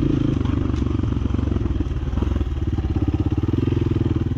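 Small single-cylinder motorcycle engine running steadily while riding along a rough dirt track, its firing pulses close and even.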